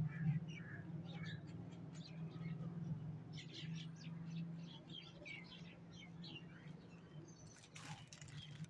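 Small birds chirping in quick, repeated short calls over a steady low hum, with a single sharp click near the end.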